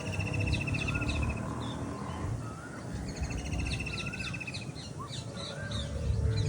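Several birds singing and chirping together: a rapid trill repeated about every three seconds, many short high chirps, and a lower wavering whistle, over a steady low background rumble.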